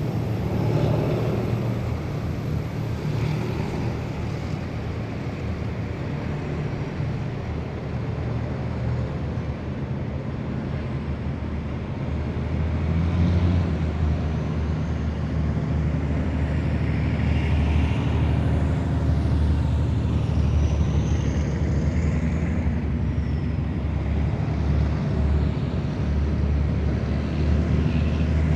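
A column of heavy military vehicles driving past, their engines giving a steady low rumble that grows louder about halfway through. There is a brief high squeal about two-thirds through.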